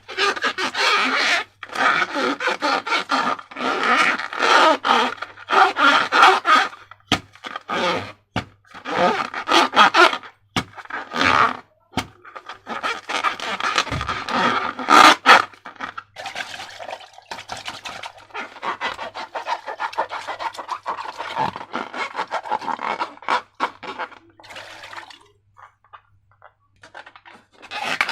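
Hands working a slime-filled rubber balloon and its slime: irregular rubbing, squishing and scraping sounds in clusters with short pauses, quieter for the last few seconds.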